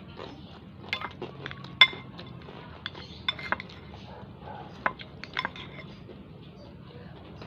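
Spoon or fork clinking against a bowl of instant noodles while eating, about eight sharp clinks at irregular intervals, the loudest about two seconds in.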